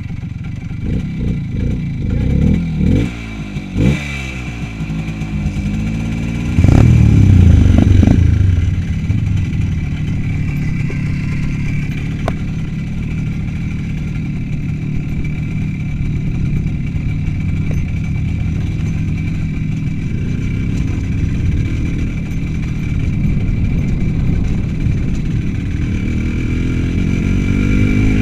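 Small single-cylinder motorcycle engine blipped a few times in short revs, then pulling away loudly about six and a half seconds in and running steadily under way, with a rising rev near the end.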